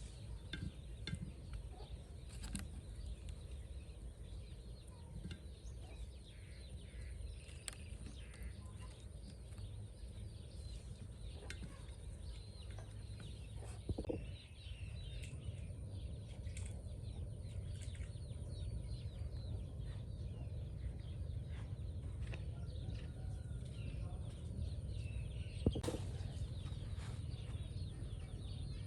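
Chickens clucking now and then over a low steady rumble, with scattered light clicks and taps; a louder knock comes about halfway through and another near the end.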